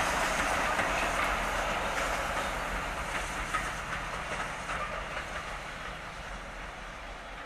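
A train running away along the line, its sound fading steadily as it recedes into the distance.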